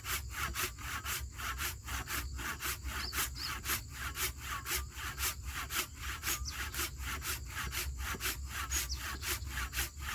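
Hand saw cutting through wood from a fallen tree, in a steady rhythm of about three strokes a second.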